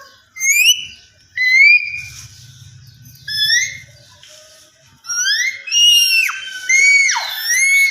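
Indian ringneck parakeet whistling: three separate upward-gliding whistles, then a quicker run of about four whistles that rise and then drop steeply in pitch.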